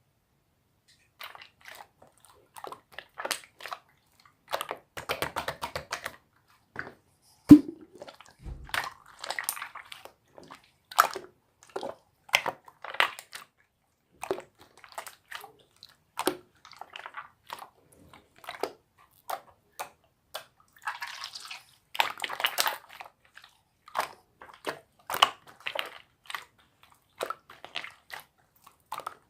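Slime being squished and pressed by hand: irregular sticky clicks and crackling squelches. There is a louder single pop about seven and a half seconds in.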